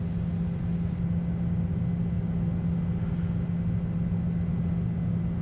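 Steady in-flight cockpit noise of a Gulfstream G-IV jet: a continuous low rumble of airflow and engines with a steady low hum running through it.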